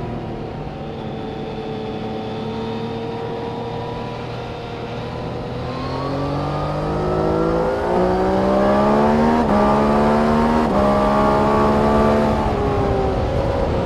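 Engine of a vehicle lapping a race circuit: its pitch sinks as it slows for the corner, then climbs and grows louder from about halfway through as it accelerates out, with a few sudden steps in pitch, before easing near the end.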